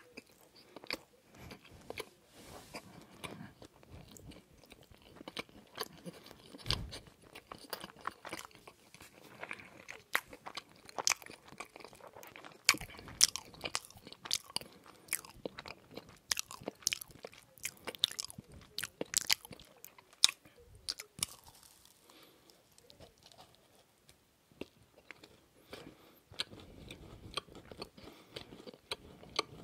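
Close-miked biting and chewing of a macaron: many sharp, crisp crunches of the shell with softer chewing between them, easing off for a few seconds past the two-thirds mark.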